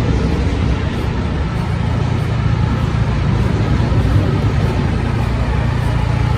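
Steady low rumble of city traffic: vehicle engines running on a busy street.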